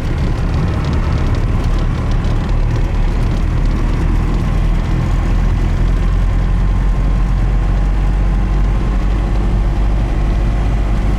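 Pickup truck driving along a rough dirt forest road: a steady, loud low rumble of engine and tyres.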